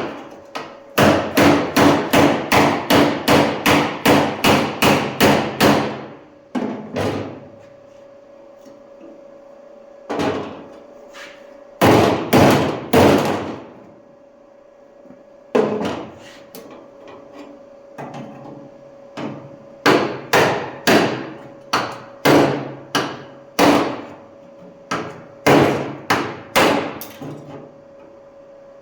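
Hammer striking the steel bottom edge of a car door, knocking off leftover metal from the cut-away door flange. The blows come in quick runs of about three a second, broken by short pauses.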